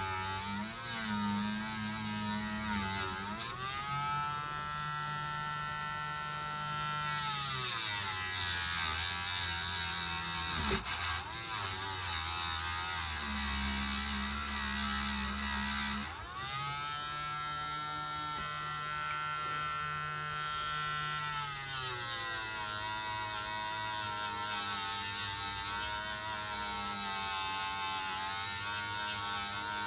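Small handheld electric motor tool buzzing while it cleans a metal slot-car contact. Its pitch rises and holds for a few seconds twice, about four seconds in and again about sixteen seconds in, then drops back.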